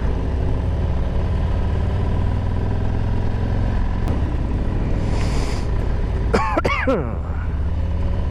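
Harley-Davidson Road Glide's V-twin engine running steadily under way, with road and wind rumble. About six and a half seconds in comes a short vocal sound, rising and falling in pitch.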